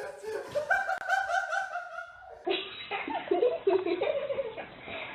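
A person laughing in quick, even, high-pitched bursts; about two and a half seconds in it cuts off abruptly and a different, lower voice follows.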